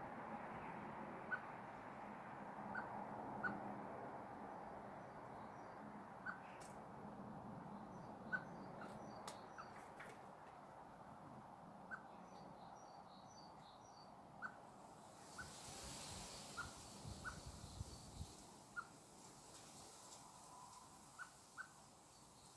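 Faint, short bird call notes repeated at irregular intervals, a note every second or two, with some fainter high-pitched chirps in the middle.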